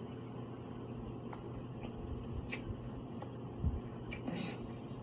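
Close-up wet chewing and biting of seafood-boil food in garlic sauce, with squishy mouth sounds and scattered small clicks.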